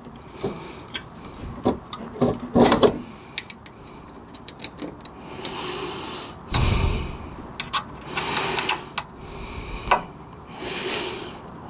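Scattered clicks, clinks and knocks of hand tools and metal parts being handled while fitting door hinge pins and bushings, with a few longer rustling swells in between.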